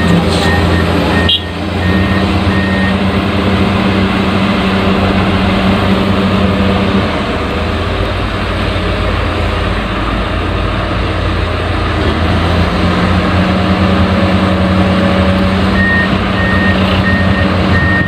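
Backhoe engine running steadily with a low hum. A reversing alarm beeps in a regular on-off pattern near the start and again near the end.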